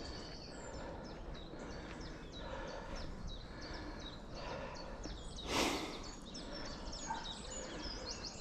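Songbirds chirping and singing over a faint outdoor background, with one brief loud whoosh about five and a half seconds in.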